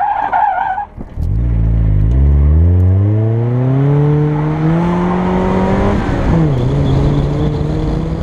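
Tyres squealing for about the first second, then a convertible sports car's engine accelerating hard, its pitch climbing steadily for about five seconds. About six seconds in the pitch drops quickly as it changes gear, then the engine pulls on at a steady pitch.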